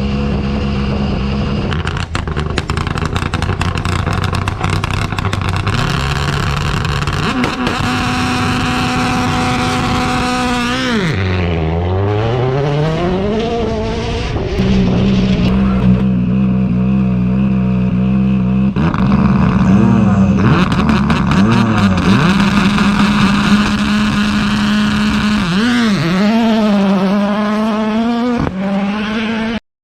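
Rally car engine held at high, steady revs with sharp crackles and pops, as at a launch. About halfway through the revs drop sharply and climb back; near the end they blip up and down before the sound cuts off suddenly.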